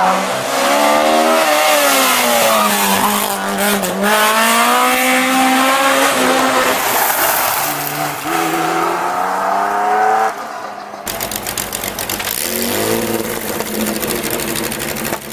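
Historic rally car engine being worked hard, its pitch climbing and dropping again and again as it revs up and shifts through the gears on the stage. About eleven seconds in the sound cuts to a quieter, lower engine.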